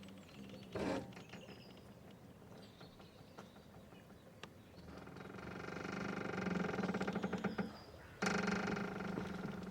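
Boat mooring ropes creaking and squeaking as they stretch under load. There is a short creak about a second in, then a long drawn-out creak swelling from about five seconds to eight, and another that starts suddenly just after eight.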